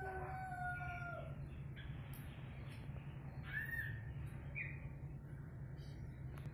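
Birds calling over a steady low hum: a drawn-out call fades out in the first second, then a few short chirps come between about three and a half and five seconds in.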